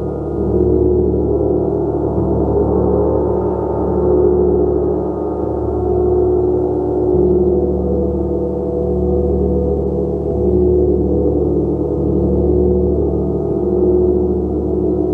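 A gong played continuously: a sustained wash of many overlapping ringing tones that swells and eases every couple of seconds.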